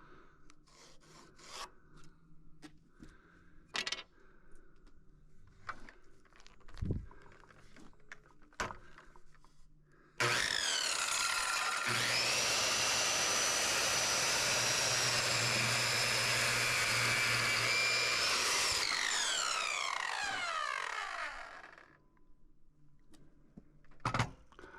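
Light knocks and clicks, then about ten seconds in an electric saw starts with a high whine and cuts wood for several seconds. It is then let go and winds down with a falling whine.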